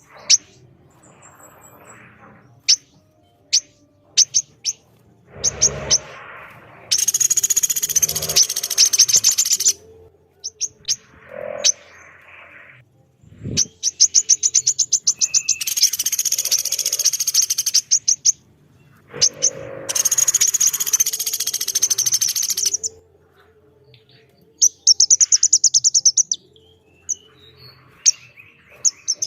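Recorded bird calls of a pelatuk beras and a female korlap: several runs of rapidly repeated high, harsh notes, each lasting about three seconds, with sharp single chips between them.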